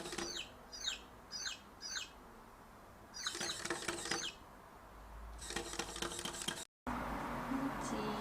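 Baby chicks peeping: repeated high, downward-falling peeps, single ones about every half second at first, then quick clusters around three to four seconds in and again near six seconds, with light scratchy pattering among them. The sound cuts off abruptly near the end and a steady hiss follows.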